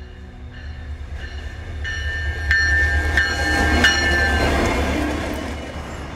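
Alaska Railroad diesel locomotive and train passing by. The low rumble swells to a peak in the middle and then fades away, with a high, steady wheel squeal and a few sharp clicks as it goes by.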